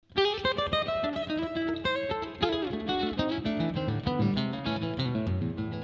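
Intro music: acoustic guitar, plucked and strummed.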